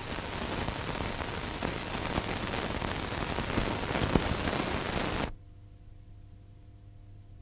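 Steady hiss with scattered crackles and clicks from an old film's soundtrack. It cuts off suddenly about five seconds in, leaving only a faint low hum.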